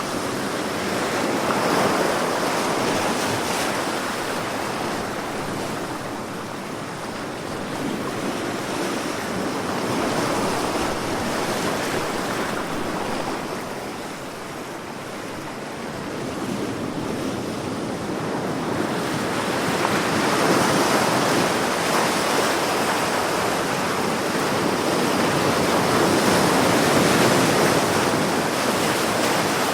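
Sea waves washing onto a shore, a continuous surf noise that swells and ebbs every several seconds.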